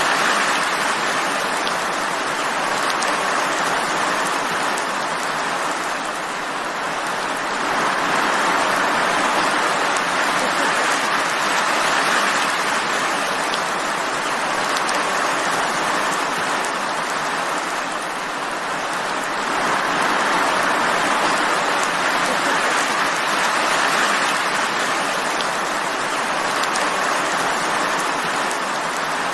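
Steady rain falling, a dense even hiss of drops that swells and eases gently every several seconds.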